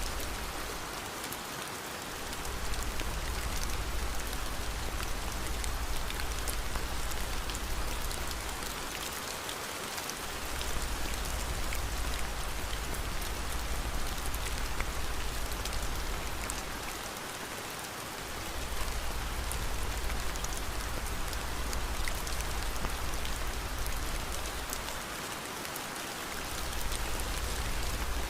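Steady rain ambience mixed with a fireplace, small crackles scattered over the hiss of the rain. A low rumble underneath fades out briefly about every eight seconds.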